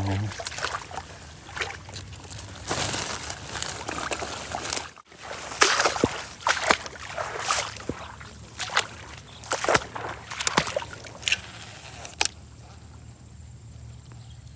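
Water splashing and sloshing in irregular bursts as a hooked snakehead thrashes at the surface. The splashing stops about twelve seconds in.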